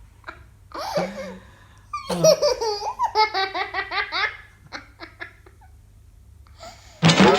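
Young child laughing in bursts of rhythmic giggles, then breaking into a sudden loud, warbling high-pitched squeal near the end.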